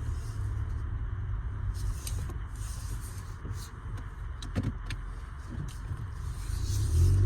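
A car's low, steady mechanical hum, with a few light clicks about four and a half seconds in, getting louder near the end.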